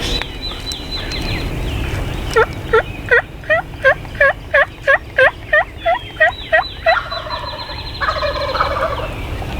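A run of about thirteen evenly spaced turkey yelps, then a turkey gobble about eight seconds in. Quick, high descending chirps sound at the start and again near the end.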